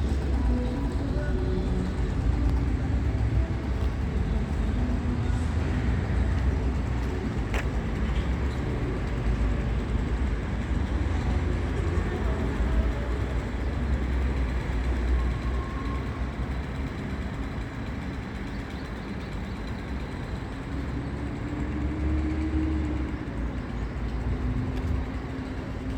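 Small Japanese-made petrol engine of a motorized bicycle running steadily under way, its pitch rising and falling slowly with engine speed.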